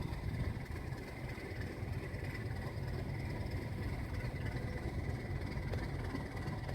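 Alco RS8 diesel locomotive's engine running steadily at idle, a low, even rumble with a faint high steady whine above it.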